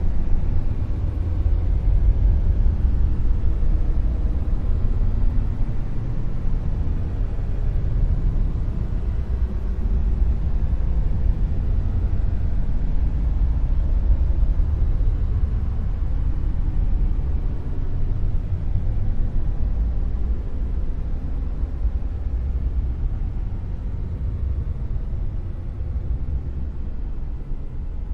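Dark noise: a steady, deep rumble with its weight in the bass and little treble, even throughout and easing slightly toward the end.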